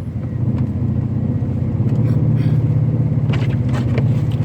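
Pickup truck driving in four-wheel drive on a snow-covered road: a steady low rumble of engine and tyres that grows a little louder about half a second in.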